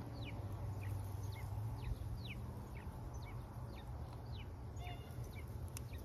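Small birds chirping: a string of short, quick downward chirps, about two a second, over a low steady hum.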